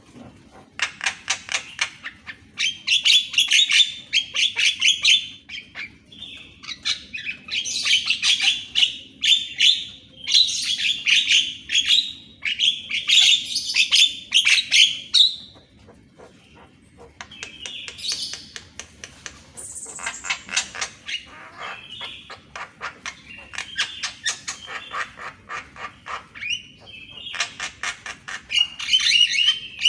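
Javan myna singing: bouts of rapid, high repeated notes lasting several seconds each, with brief pauses between bouts.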